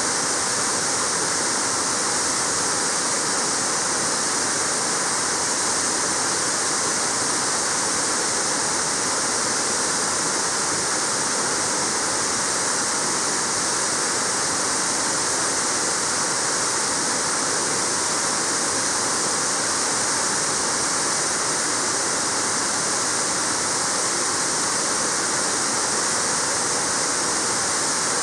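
Waterfall pouring steadily: a continuous, even rush of falling water with no change in level.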